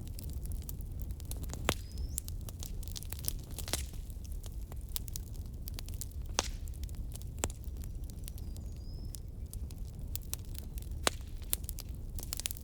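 Burning firewood crackling, with irregular sharp pops and snaps over a low, steady rumble.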